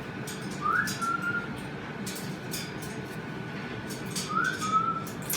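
Pet cockatoo giving two short whistles, each a quick rise into a held note, with scattered light clicks between them.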